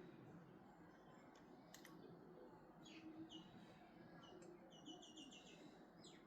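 Faint birdsong of short chirps, with a quick run of about six notes a little after halfway, over a low background hum.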